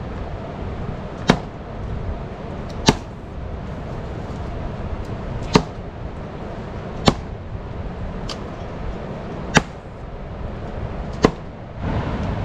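Seven sharp knocks at uneven intervals of one to two and a half seconds, over a steady low background rumble.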